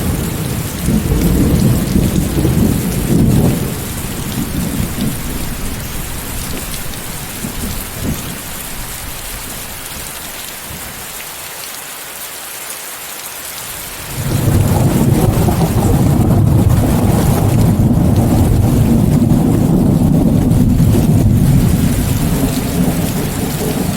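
Steady rain hissing, mixed with white noise, under rolling thunder: a low rumble dies away over the first few seconds, leaving mostly rain, then a second long peal of thunder breaks in suddenly a little past halfway and keeps rumbling.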